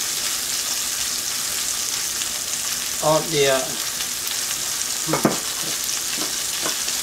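Steady sizzle of food frying, a constant hiss. A short spoken word about three seconds in and a light click of the spoon against the glass bowl about five seconds in.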